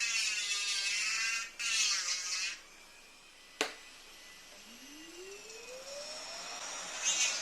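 Jeweller's rotary engraver grinding metal in two short bursts, its whine shifting in pitch under load. Then a sharp click, and a motor whine rising steadily in pitch as it spins up.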